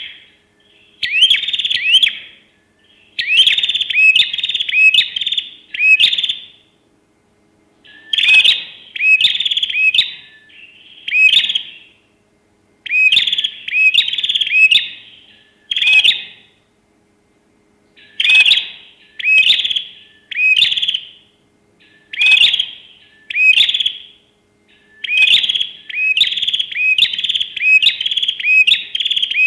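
Drongo calling: repeated phrases of three to five quick rising whistled notes, with pauses of a second or two between phrases.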